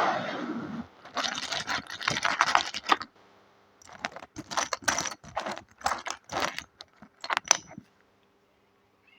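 Hard plastic Lego pieces clattering and clicking as they are handled and rummaged, in two bursts of rapid clicks with a short pause between, after a brief rush of noise in the first second.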